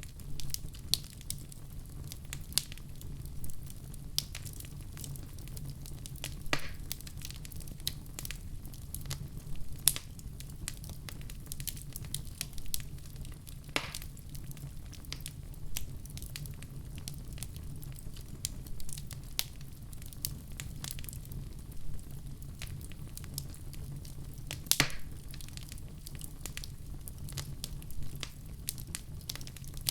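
Wood fire crackling, with irregular sharp pops and snaps over a steady low rumble of flames.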